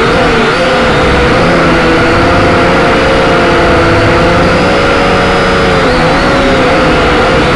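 Quadcopter's electric motors and propellers whirring loudly and steadily, several close whining tones wavering slightly up and down in pitch.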